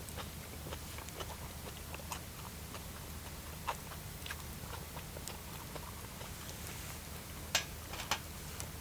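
Wood campfire crackling, with irregular sharp pops and two louder snaps near the end.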